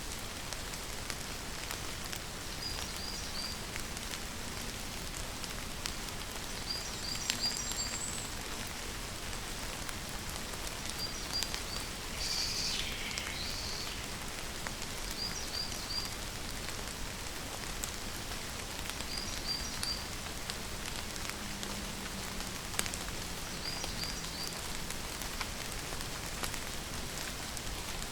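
Steady rainfall, an even hiss of drops. Short high chirps in threes recur about every four seconds, and one longer falling call sounds a little under halfway through.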